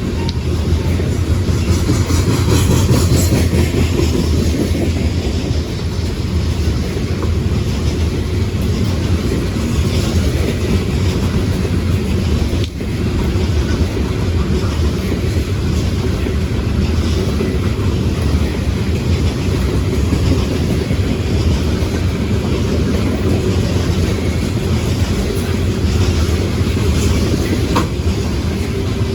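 Freight train cars rolling past in a steady rumble, with the repeated clickety-clack of wheels going over rail joints.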